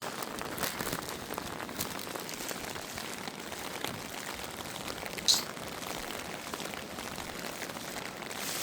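Steady rain falling, a continuous patter of drops. About five seconds in, a single short high chirp stands out above it.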